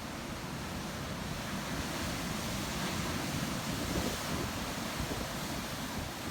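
Ocean surf: a steady wash of breaking waves, swelling slightly midway.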